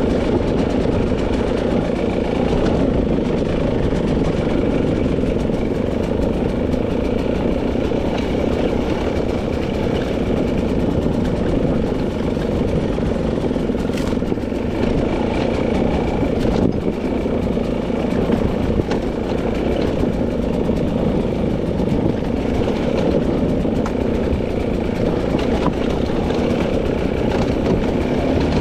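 A 300cc two-stroke dirt bike engine running at fairly steady, low revs under way, with a few short knocks partway through.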